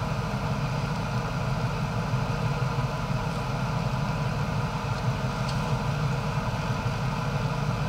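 A vehicle engine idling steadily, a low even hum that holds the same pace throughout.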